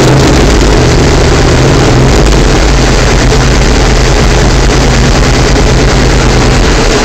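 Yamaha Super Ténéré's 1200 cc parallel-twin engine running loud and steady under load on a rolling-road dyno, breathing through Arrow exhaust pipes, its pitch held nearly level.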